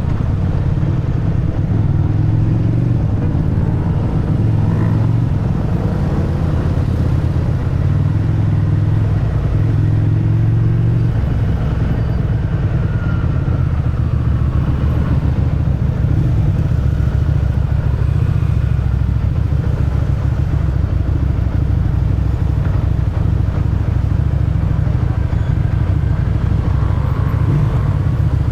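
Motorcycle engine and exhaust running steadily while riding, heard from the rider's position. It is a continuous low drone whose note shifts slightly about eleven seconds in.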